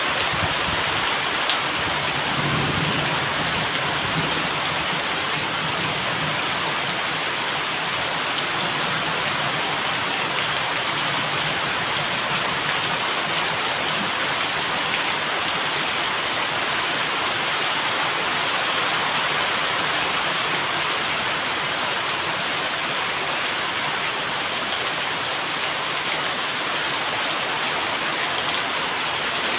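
Steady, heavy rain hissing without a break, with a low rumble of thunder a few seconds in.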